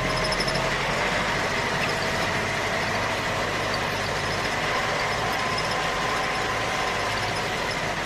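A motor running steadily, with a faint whine that drifts a little in pitch.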